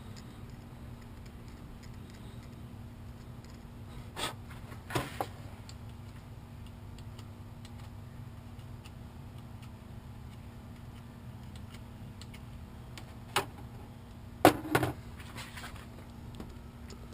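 Steady low hum with a few sharp clicks and taps of a soldering iron and wires being handled: one about four seconds in, two close together a second later, and a cluster near the end, the loudest of them about two and a half seconds before the end. The iron melts a wrap of thin solder around a car wiring splice with no sound of its own to be heard.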